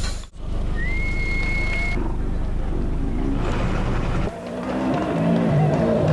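Rally car engine coming closer, its revs rising and falling and getting louder over the last couple of seconds. Before that, a steady low hum with a brief high whistle-like tone about a second in.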